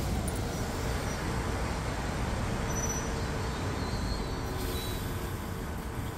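Steady low rumble and hum from a Metro-North electric train standing at the station platform.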